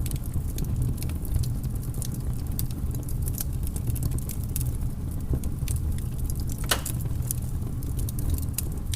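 Wood fire crackling: irregular sharp pops and snaps, one louder snap about two-thirds of the way through, over a steady low rumble.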